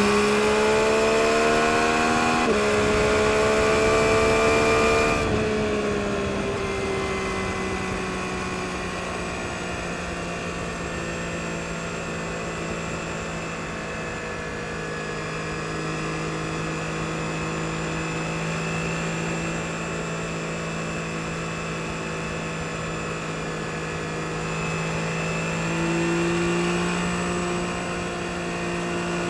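2022 Yamaha MT-09 SP's 890 cc inline-three engine under way. It pulls with rising pitch through a gear change about two and a half seconds in, eases off about five seconds in, then cruises steadily, with a brief rise in revs near the end.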